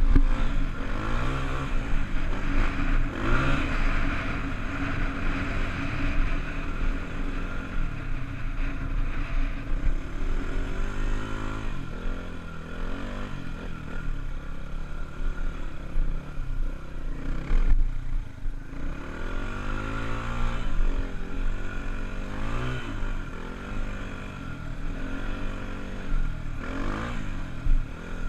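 Honda dirt bike engine being ridden, revving up and falling back again and again, with a couple of sharp bumps, one at the start and one about two-thirds through.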